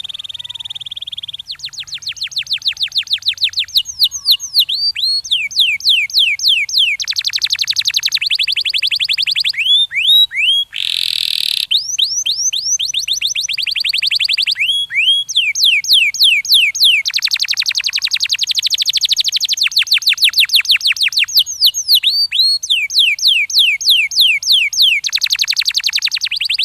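Domestic canary singing a long trilled song: fast runs of repeated notes, some sweeping down and some rising, switching to a new trill every second or two, with one brief harsher burst about eleven seconds in.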